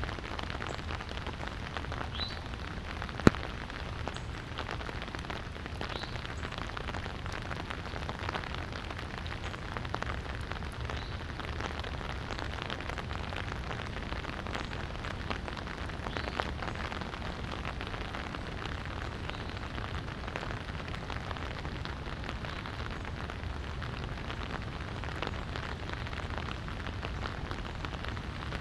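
Light rain falling steadily, with scattered drops ticking on nearby surfaces. One sharp tick about three seconds in stands out above the rest.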